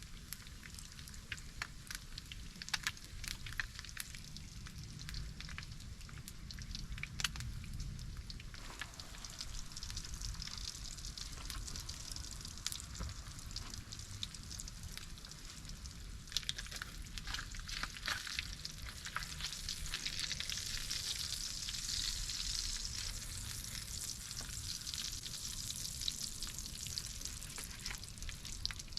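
Food frying in a pan over campfire coals: a steady sizzle with scattered sharp pops, swelling louder about a third of the way in.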